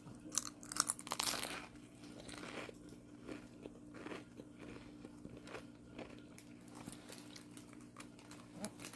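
A person chewing crunchy food close to the microphone: crisp crunches in the first second and a half, then softer, irregular chewing.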